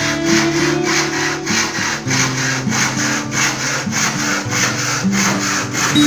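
Hand saw cutting wood with quick, even back-and-forth strokes, over background music with held low notes.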